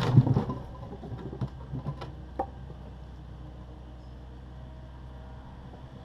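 Takeuchi TB260 excavator digging out a concrete garage floor: a burst of clattering knocks at the start, then a few lighter knocks up to about two and a half seconds in, over the diesel engine running steadily.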